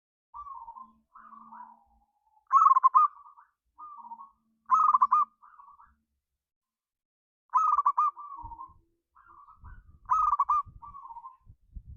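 Zebra dove (perkutut) cooing: a loud rolling, trilled coo phrase about every two and a half seconds, with softer short coos in between.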